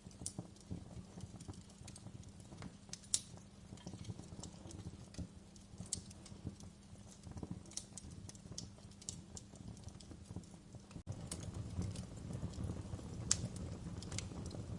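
Wood fire in a fireplace crackling, with irregular sharp pops and snaps over a low steady rumble of the flames. The rumble grows louder about eleven seconds in.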